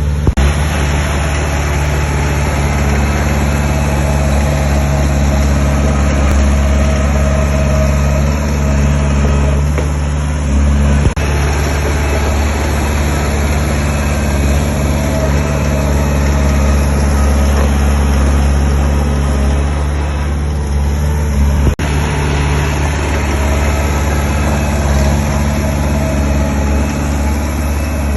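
Heavy construction machine's diesel engine running steadily, a low drone with two brief knocks, one about eleven seconds in and one a little past twenty seconds.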